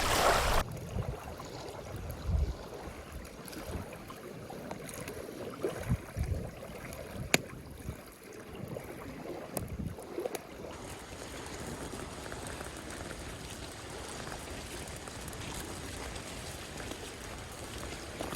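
Wind gusting on the microphone over water lapping against the rocky lakeshore, with a few sharp clicks, the sharpest about seven seconds in.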